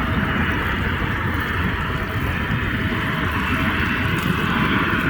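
Steady roar of a jet airliner coming in to land, with a faint steady whine above a low rumble.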